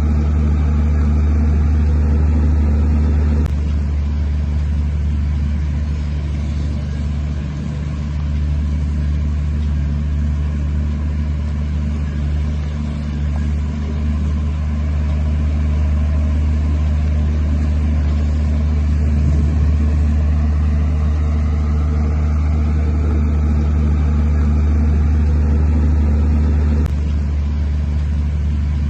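Heavy diesel engine of earthmoving machinery running steadily, a deep low drone. The sound changes abruptly about three and a half seconds in and again near the end.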